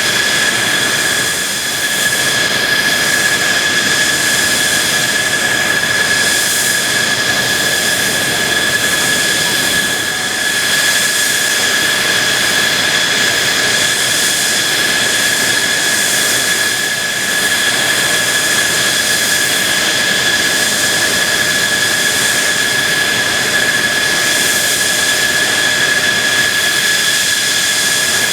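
F-2B fighter's F110 turbofan engine running steadily: a loud jet rush with a constant high-pitched whine.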